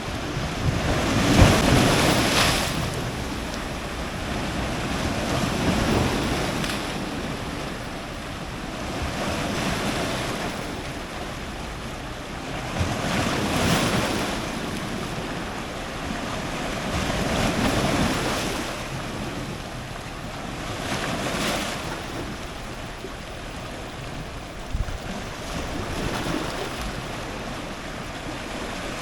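Powerful ocean surf breaking on rocks at the shoreline, a wave surging in and washing back about every four seconds, each swell rising and fading.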